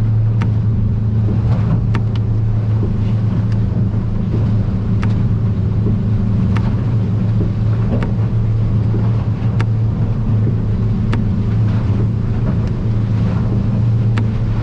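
Outboard motor on a Stabicraft 2050 Supercab aluminium boat running steadily at cruising speed, about 16 to 18 mph. Sharp knocks every second or two as the hull slaps through the chop.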